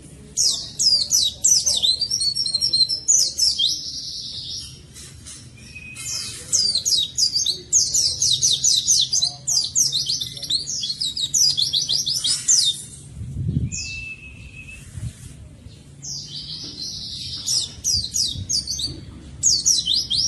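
White-eye (pleci) in full song: fast bouts of high, quick down-slurred twittering notes lasting several seconds each, broken by short pauses, with a couple of brief level whistles in between.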